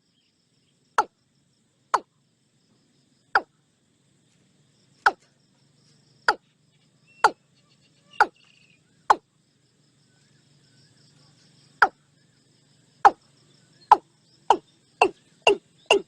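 Watercock calling: a run of short, sharp notes at about one a second, irregularly spaced, quickening to two or three a second in the last few seconds. A faint steady background hum sits underneath.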